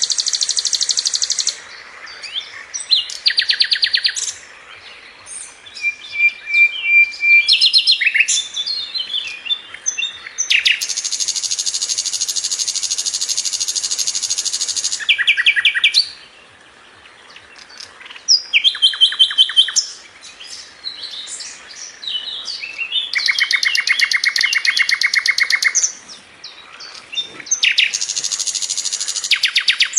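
Sikatan londo flycatcher singing: long, very fast, tight trills of repeated high notes, each lasting a few seconds, alternating with quick runs of varied short chirps and whistles.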